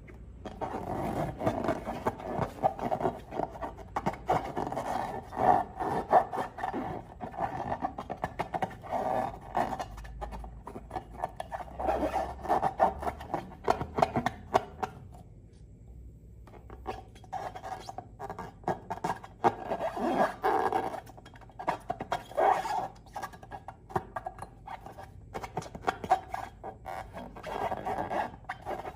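Rubbery squeaking and sticky crackling from hands working slime and long rubber balloons, with a brief pause about halfway through.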